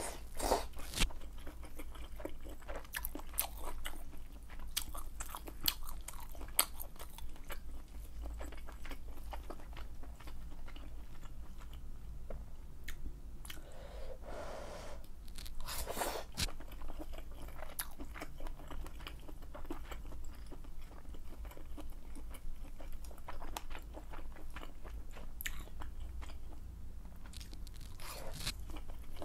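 Close-miked chewing and biting of malatang, mostly bean-curd skin and noodles in spicy broth, with many small sharp wet clicks and crunches of the mouth and a longer drawn-out mouth sound around the middle.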